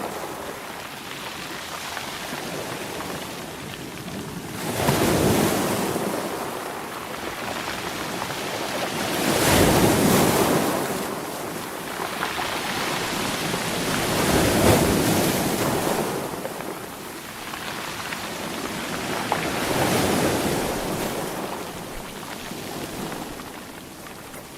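Sea waves breaking and washing back, a rushing swell rising and falling about every five seconds.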